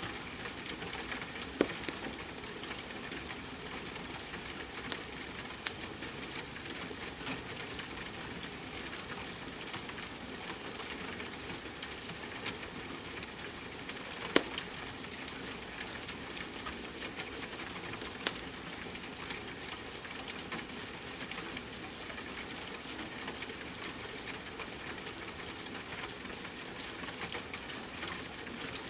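Wood fire crackling over a steady hiss of rain, with sharp pops every few seconds, the loudest a little after a second in and about fourteen seconds in.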